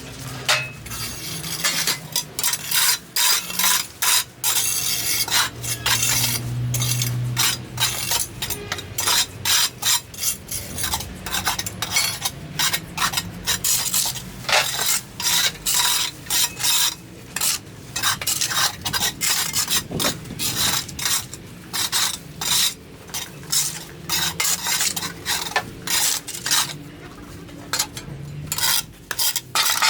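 Rapid, irregular scraping or scrubbing strokes, a few a second, with a hissy, rasping edge.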